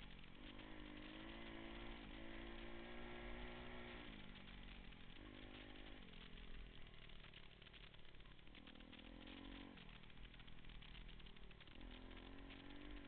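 Pit bike engine running while being ridden, its revs rising and falling several times.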